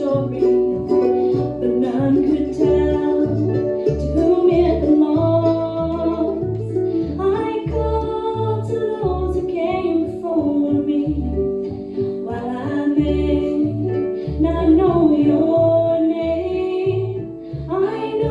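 Harp, mandolin and upright bass playing together in a bluegrass-style song, the bass plucking a steady pattern of low notes under the plucked melody.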